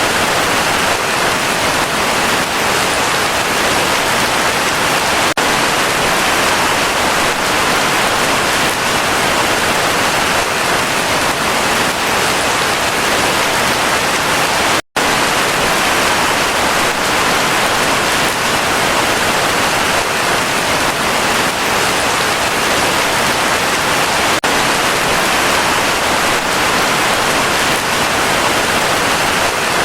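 Heavy rain falling steadily in a forest, a dense, even hiss of rain. The sound cuts out for an instant about halfway through.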